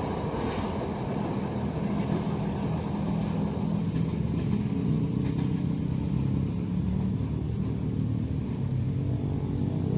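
Steady low rumble of a running engine, holding an even pitch with a little unevenness in level.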